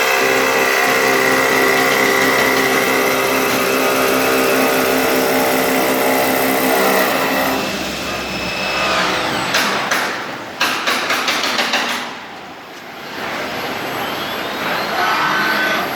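Four-axis CNC wood lathe running, its motors giving a steady whine made of several tones. About halfway through the whine drops away, there is a quick run of sharp clicks, and near the end a rising whine as the motors speed up again.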